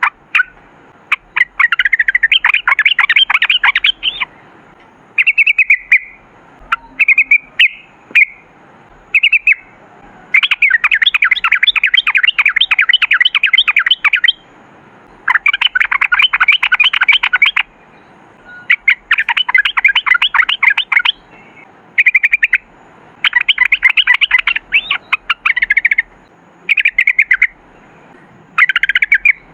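Yellow-vented bulbul (trucukan) singing loudly, in long fast rattling trills of two to four seconds alternating with short clear phrases, repeated throughout.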